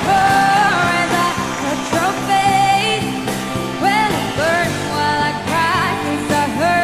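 A female singer's voice sliding through wordless melismatic runs over a pop ballad backing track.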